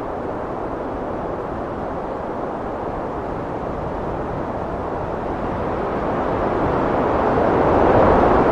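Heavy wind blowing, a steady low rushing that builds to a stronger gust in the last couple of seconds.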